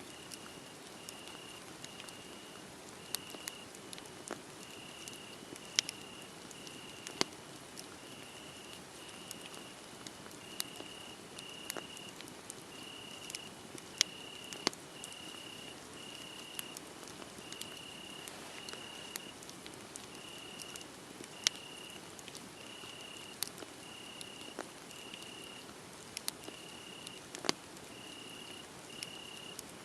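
Wood fire crackling, with scattered sharp pops over a low hiss, while crickets chirp steadily in short high pulses a little more than once a second.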